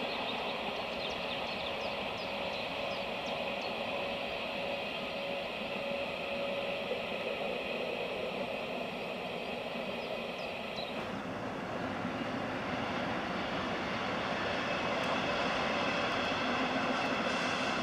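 Electric regional train with red double-deck coaches climbing a mountain line, heard from a distance as a steady drone. Its sound changes abruptly about eleven seconds in.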